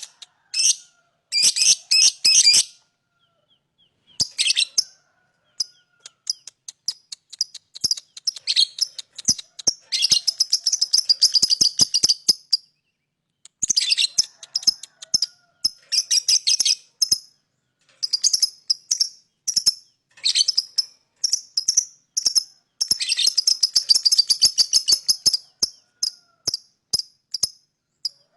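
Lovebird chattering: rapid, high chirps in bursts of a few seconds separated by short pauses, the long chattering song called ngekek.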